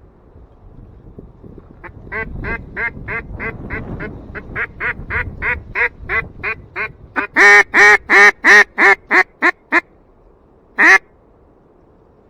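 A duck call blown close by: a long, even run of quacks, about three or four a second, building up to very loud, then a single quack about a second later.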